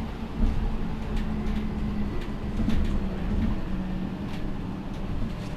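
MAN Lion's City G articulated city bus running with a steady low diesel drone, with scattered short rattles and knocks over it.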